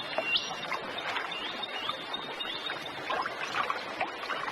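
Water trickling and lapping, with small scattered splashes and a thin high tone held through the first few seconds.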